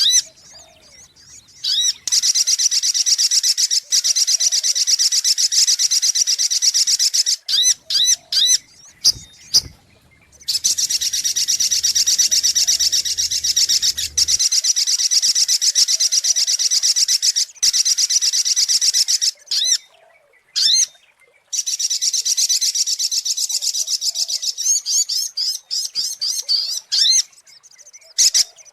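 Sogok ontong (spiderhunter) calling as a lure recording: long, very fast runs of high, repeated notes lasting several seconds each, with short groups of single sharp notes in the gaps between them.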